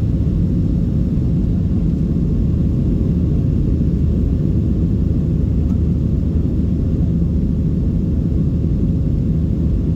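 Steady low rumble of a Boeing 737-700's CFM56-7B jet engines and airflow, heard from inside the passenger cabin. A faint steady tone rides on top of the rumble.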